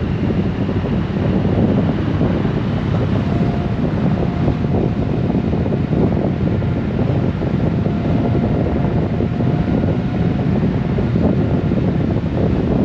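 Steady rush of wind on the microphone over the running drone of a Honda GoldWing motorcycle cruising at road speed, with a faint steady whine through the middle.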